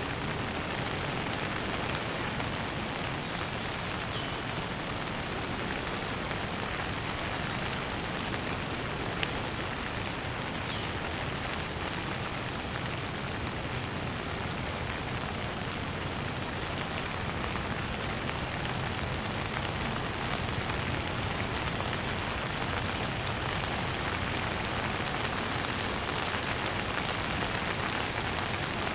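Steady rain falling, an even hiss of drops landing on surfaces.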